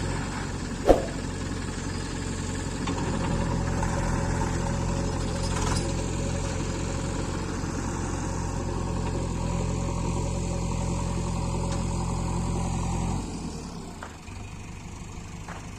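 Sonalika DI-50 tractor's diesel engine running steadily, with one sharp clank about a second in. The engine sound drops away near the end.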